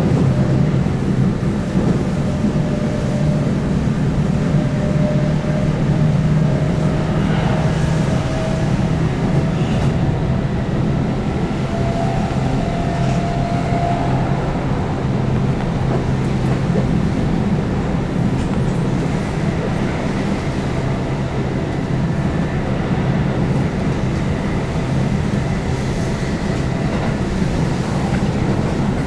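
Keihan 8000 series electric train running steadily at speed on its nonstop stretch, with a continuous low rumble of wheels on rail and the hum of its DC traction motors under field-added excitation control. A faint tone drifts slightly upward near the middle.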